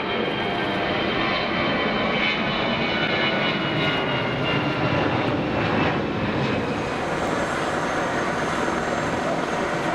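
Airbus A320 jet engines at take-off thrust, a loud steady jet noise with a faint whine falling slightly in pitch as it goes. About seven seconds in, a thin high whine comes in.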